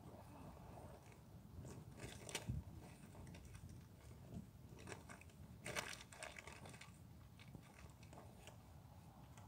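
Near silence, broken by a few faint crunching, rustling sounds, the clearest about two seconds in and just before six seconds.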